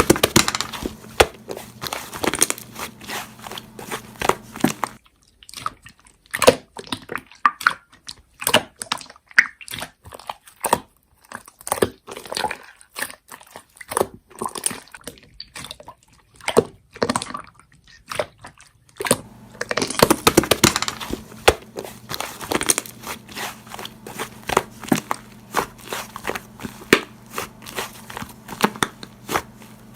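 Slime being squeezed and poked by hand, making fast, irregular clicks and crackling pops. It goes quieter for a long stretch in the middle.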